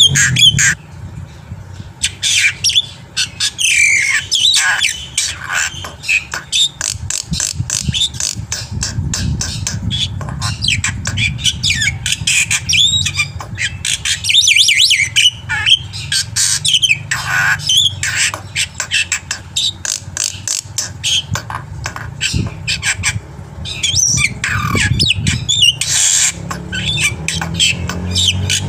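Black-winged myna (jalak putih) singing hard: a long, fast, unbroken run of harsh squawks, chattering clicks and short whistled phrases, with a steady low hum underneath.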